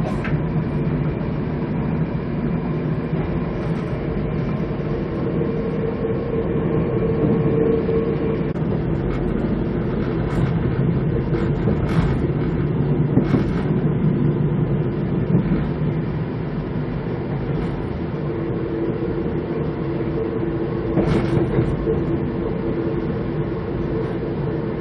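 Passenger train car running along the track, heard from inside: a steady rumble with a low hum and a few sharp clicks from the wheels over the rails.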